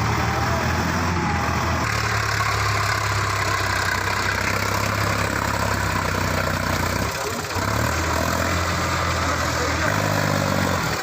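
Diesel tractor engine running steadily, dipping briefly about seven seconds in before picking up again.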